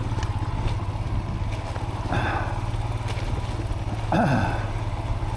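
Motorcycle engine running at low revs on a rough dirt track, with two brief louder bursts about two and four seconds in.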